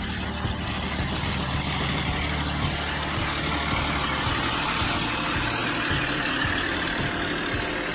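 Heavy off-road truck engine running as it works through a swamp, a steady rumble under a noisy wash.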